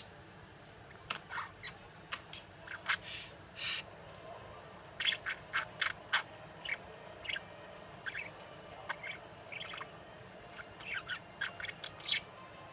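Young budgerigar's soft warble: a scattered string of short clicks, chirps and scratchy notes, in clusters with brief pauses between.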